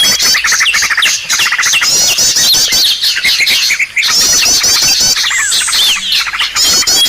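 Bird-lure (pikat) recording of several small songbirds calling at once, used to draw in small birds such as prinias. It is a loud, unbroken tangle of fast chattering trills, quick whistled down-slurs and runs of short rising chirps.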